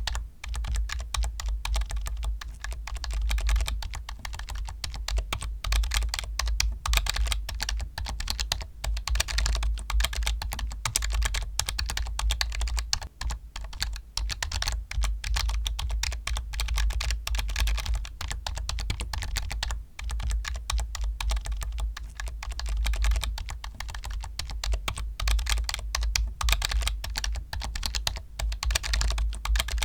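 Rapid, continuous typing on a computer keyboard: a dense stream of key clicks with only brief pauses.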